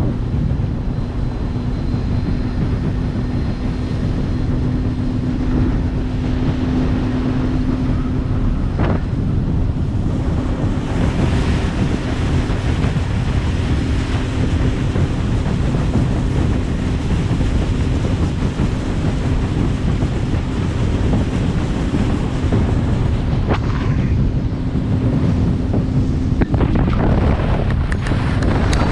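A small boat under way: its engine runs at a steady note, under heavy wind noise on the microphone and the wash of water. The engine's steady note fades out near the end.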